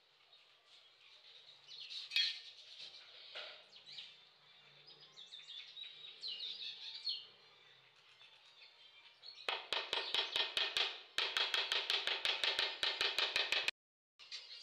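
Birds chirping. About nine seconds in, a loud, fast, even run of sharp taps, roughly six a second, goes on for about four seconds and cuts off abruptly.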